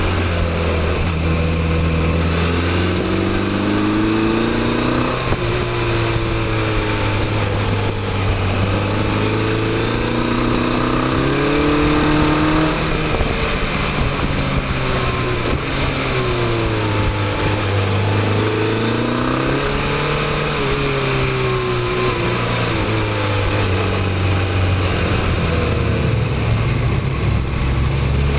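Motorcycle engine running under way, its pitch rising and falling every few seconds as the throttle is opened and closed, over a steady rush of wind noise.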